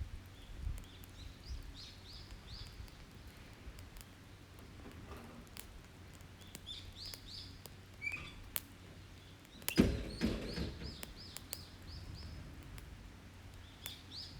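Small songbirds calling in repeated short chirp phrases over the light crackle of an open wood campfire, with a louder knock about ten seconds in.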